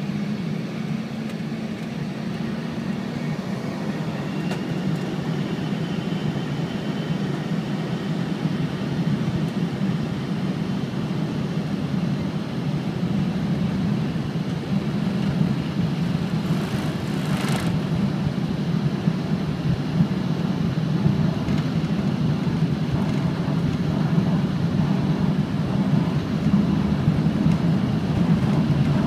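Cabin noise of an Embraer ERJ 135 regional jet during take-off: a steady rumble of its two rear-mounted turbofan engines and airflow, slowly growing louder.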